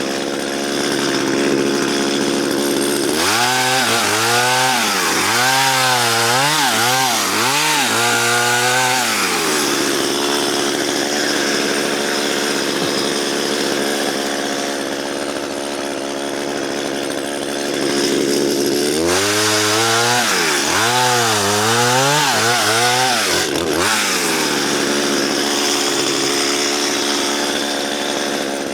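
Chainsaw cutting through spruce, its engine running steadily, then in two stretches its pitch swinging up and down again and again as the saw is revved and rocked in the cut. The chain is dull and struggles through the wood.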